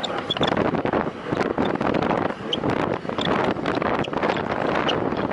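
Wind buffeting the microphone of a camera on a road bike ridden at speed: a loud, fluctuating rush of noise, with short high ticks scattered through it.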